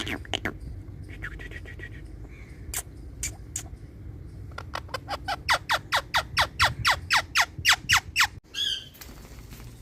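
Indian ringneck parrot (rose-ringed parakeet) calling. After a few scattered calls it gives a fast run of sharp screeches, each falling in pitch, about five a second for nearly four seconds. The run stops abruptly and a short rougher call follows.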